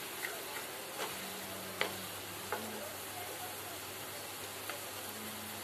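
Vermicelli sizzling in oil in a wok as it is stirred with a wooden spatula, with a few sharp knocks of the spatula against the pan.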